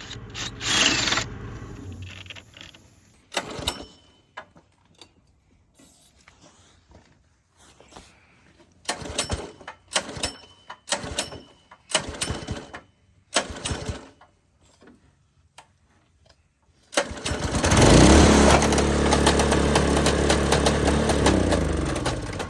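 Predator small gasoline engine on a lawnmower: a series of short separate bursts, then the engine catches and runs steadily for about five seconds before slowing and dying away near the end.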